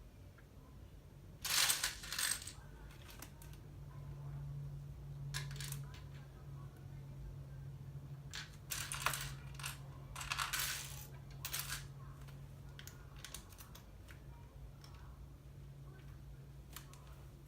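Plastic LEGO pieces clattering and clicking as they are handled and sorted through, in a few short rattling bursts (about two seconds in, and again around the middle) with scattered single clicks between.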